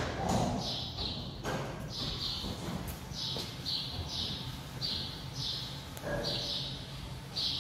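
A bird chirping over and over in short high chirps, about two a second, over a low steady hum.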